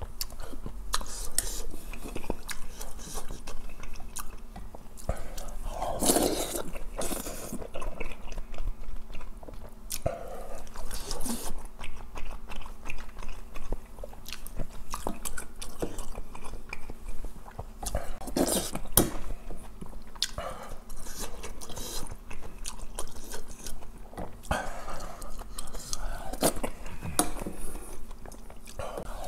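Close-miked eating of rice-cake dumpling soup: wet chewing and sipping of broth from a spoon, with many short clicks and a few louder mouthfuls, and a wooden spoon now and then knocking against the stainless steel bowl.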